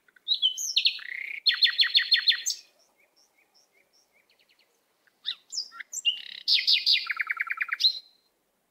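A songbird singing: two phrases of quick repeated notes, each about two and a half seconds long, the second stepping down in pitch partway through, with a few soft chirps in the pause between.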